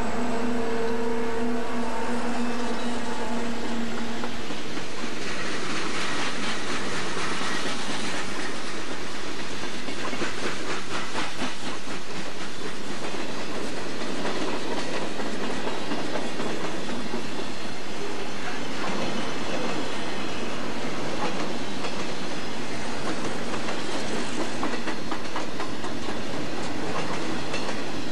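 Freight cars of a Southern Pacific train rolling past: a steady rush of wheel and rail noise with the rapid clicking of wheels over rail joints. A steady hum in the first few seconds stops about four seconds in.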